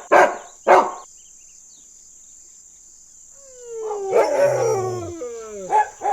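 A dog barks twice in quick succession. After a pause of about two seconds, a dog howls and whines in long calls that slide up and down in pitch.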